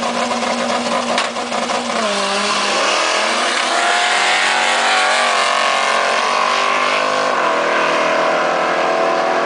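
A drag-racing car's engine at high revs, holding one note for about two seconds, then dropping and climbing in pitch a few times as if shifting through gears, before settling into a steady note. Two sharp clicks in the first second and a half.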